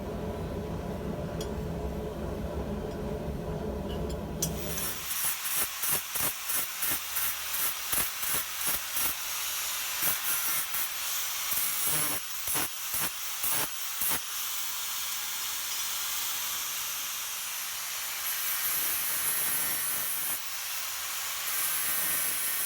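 Hot steel hissing and sputtering in water as it is quenched, pulsing about twice a second for several seconds before settling into a steady hiss. A low, steady rumble comes first and gives way to the hiss about four and a half seconds in.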